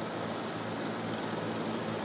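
Steady aircraft noise: a constant rushing drone with a low, even hum beneath it, with no sudden impacts.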